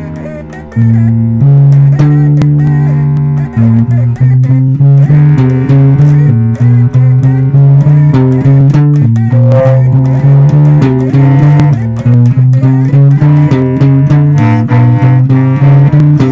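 Loose band jam: an electric bass plays a stepping line of held low notes under plucked guitar notes, coming in loud just under a second in.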